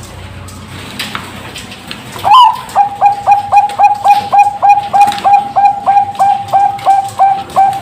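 Zebra dove (Bangkok-type perkutut) singing: after a quieter first two seconds, a loud rising opening note, then a fast, even run of short clipped coos, about three or four a second.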